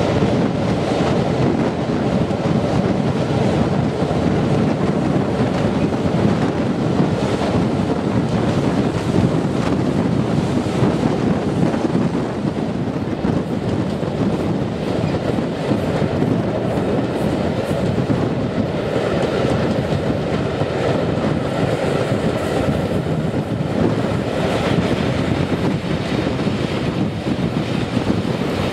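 A steam-hauled passenger train running along the line, heard from an open carriage window: a steady rumble with the clatter of the coach wheels over the rail joints.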